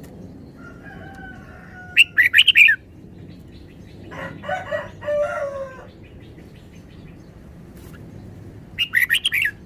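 Red-whiskered bulbul singing two short, rapid chirping phrases, about two seconds in and near the end. Between them a rooster crows.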